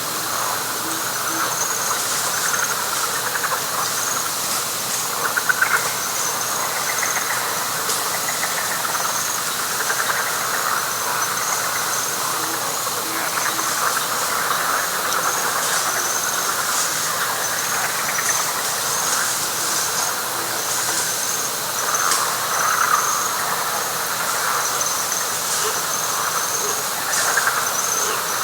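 Night chorus of frogs and insects in a wet pine flatwoods swamp: a steady, pulsing high insect trill over a dense frog chorus that swells and fades, with a few faint low calls in twos and threes.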